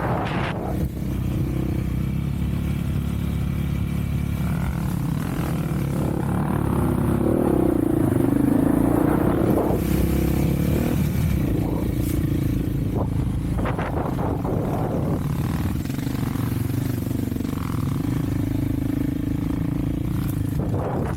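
Off-road vehicle engine running steadily while riding, rising a little about eight seconds in, with a few brief rattles and knocks from the ride.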